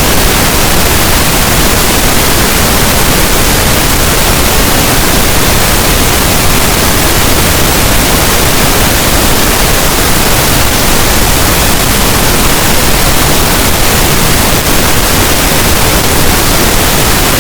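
Continuous synthetic pink noise: a steady, even hiss with no changes or events, played loud.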